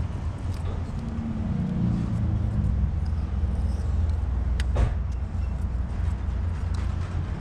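A motor vehicle engine running steadily with a low rumble, and one sharp click about four and a half seconds in.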